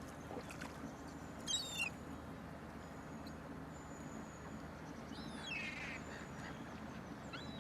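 Seabirds calling over a feeding frenzy: a few short, high calls that slide down in pitch, one pair about one and a half seconds in and another about five and a half seconds in.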